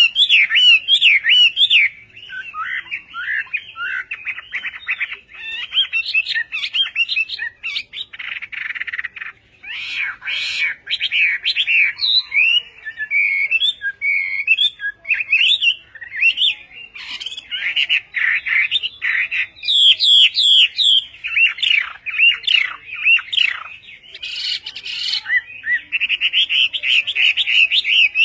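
Hwamei singing: a long, fast run of varied, sliding whistled notes.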